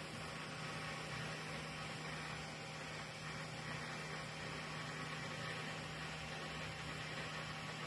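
Steady low electrical hum with a faint even hiss from a powered-up industrial power supply on the test bench, unchanging throughout.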